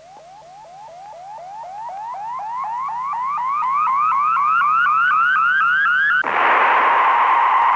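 Electronic sound effect: a train of short rising beeps, about four a second, climbing steadily in pitch and growing louder, then about six seconds in giving way suddenly to a steady rushing hiss with a tone in it.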